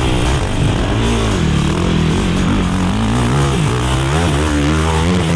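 Race quad's engine revving up and dropping back again and again as it is ridden hard, with background music underneath.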